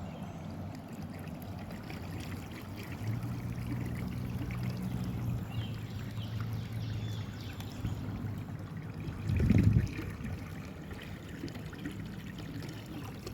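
Water trickling and splashing along a kayak's hull under way, over the steady low hum of its electric trolling motor running at full speed. A brief low thump comes about three-quarters of the way through.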